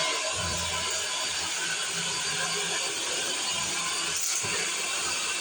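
Vacuum cleaner running steadily with a strong hiss and a faint whine.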